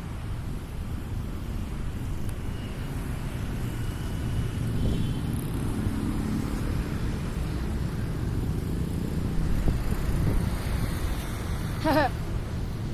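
Road traffic passing close by as a steady low rumble that swells through the middle, with a faint thin tone a few seconds in and a brief voice near the end.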